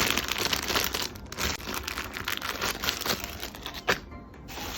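Packing material crinkling and rustling as it is handled and wrapped, with a sharp click about four seconds in.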